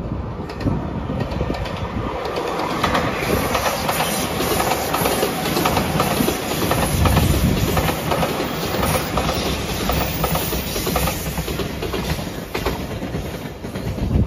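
JR Shikoku 8000 series electric limited express, with a white Anpanman-livery car coupled on, passing close by: wheels clacking over the rail joints and running noise building to its loudest about seven seconds in, then easing as the train moves away.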